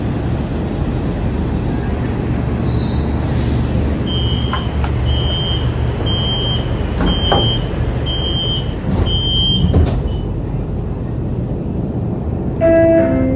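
Cabin of a CSR Zhuzhou LRT light rail vehicle: a steady low rumble, with six evenly spaced high beeps about a second apart in the middle, typical of a door-closing warning. A short chime of several tones near the end leads into an onboard announcement.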